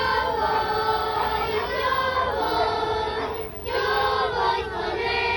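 A group of children singing together, holding long notes, with a brief break about three and a half seconds in.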